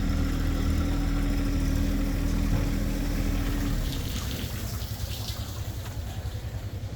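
An engine running steadily with an even low hum, which cuts off abruptly about four seconds in while a lower throb carries on.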